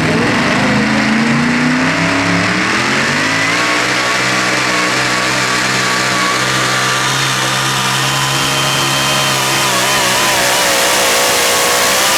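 Super modified 4WD pulling truck's engine revving up over the first few seconds, then held at high, steady revs.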